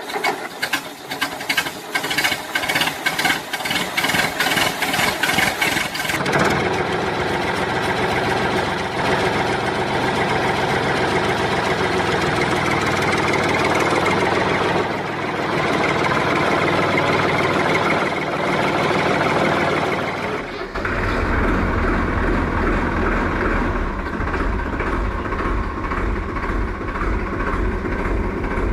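A motor running steadily, with rapid even clicking for the first several seconds and a deeper throb setting in about two-thirds of the way through.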